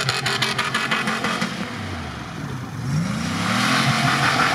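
SUV engine revving hard while drifting on snow, with the wheels spinning and hissing on the snow surface. The revs fall away a little under two seconds in and climb again about three seconds in, with a rapid crackle under the engine early on.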